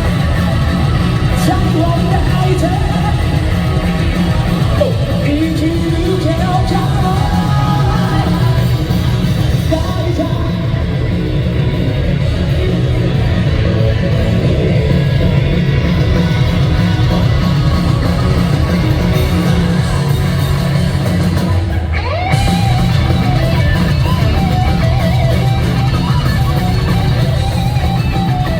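Loud live rock band playing, with a male lead voice singing and shouting over distorted electric guitars. The band drops back briefly about two-thirds of the way through, then comes back in at full volume.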